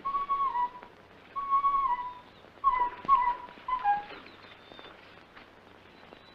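A coloratura soprano imitating bird calls: a run of short, high, two-note calls, each held and then dropping slightly in pitch. The calls stop about four seconds in.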